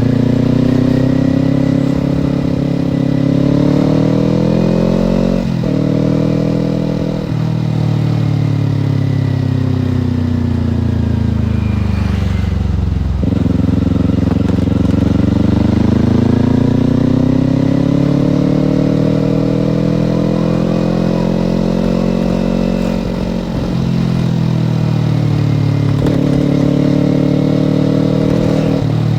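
Kawasaki Ninja parallel-twin motorcycle engine under way, its pitch climbing and dropping with the throttle. There are sudden breaks at gear changes, several times, and long falling sweeps as it slows.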